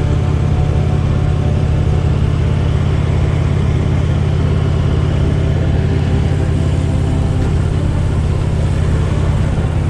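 A 2010 Harley-Davidson Electra Glide Ultra Classic's V-twin engine runs steadily at cruising speed, a constant low drone with no change in pitch.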